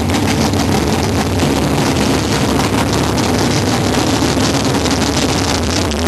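Drag-race car's engine running loudly and steadily, a low rumble without big revs, as the car rolls slowly toward the starting line.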